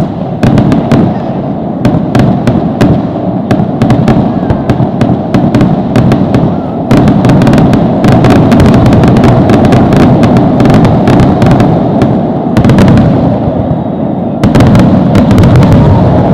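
Aerial fireworks going off in quick succession: many sharp cracks and bangs over a continuous heavy rumble of overlapping shell bursts, very loud, easing off briefly a little after halfway before building up again.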